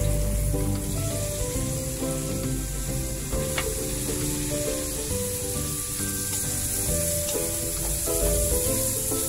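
Onion, garlic and chopped raw chicken sizzling in hot oil in a wok, stirred with a wooden spatula, with one sharp click about three and a half seconds in. Background music plays underneath.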